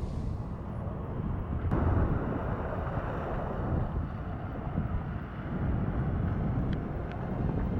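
Strong wind buffeting the microphone over a rough sea, a dense low rumble that swells louder about two seconds in.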